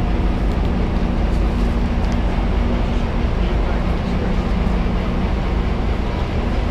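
Steady low hum of a stationary Amtrak double-deck passenger train idling at the platform, with a few level tones over a deep rumble.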